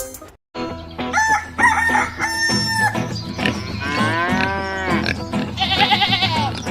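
A string of animal calls, gliding up and down in pitch, over a low steady hum, starting after a brief silence about half a second in.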